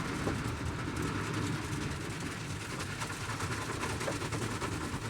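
Steady low rumble of car wash machinery running.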